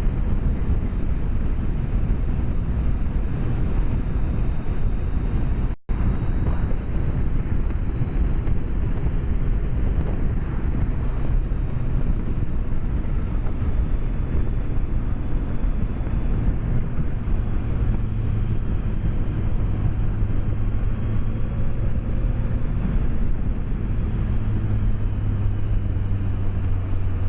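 BMW K1200S inline four-cylinder engine running at road speed under heavy wind rush, heard through a microphone inside the rider's helmet. The engine note shifts a few times as the revs change, and the sound cuts out for a split second about six seconds in.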